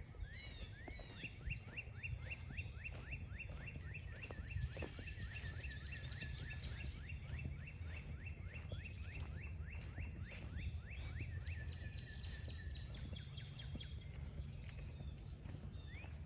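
Outdoor birdsong: a dense run of short, rising chirps from birds calling and singing over a steady low rumble, thinning out about three quarters of the way through.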